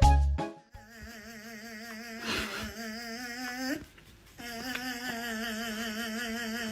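A hum-like tone held at one steady, wavering pitch, sounding twice with a short break about four seconds in.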